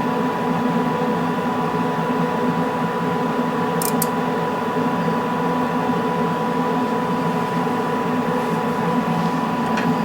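Multiple cooling fans in a LeCroy DDA-125 oscilloscope running steadily, a hum with several steady tones, noticeable but not too loud. A brief click about four seconds in.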